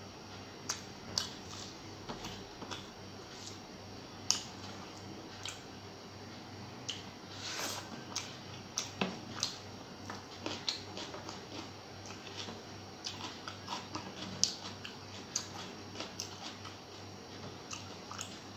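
Close-up eating sounds: someone chewing a mouthful of rice and fish curry eaten by hand, with irregular wet mouth clicks and lip smacks.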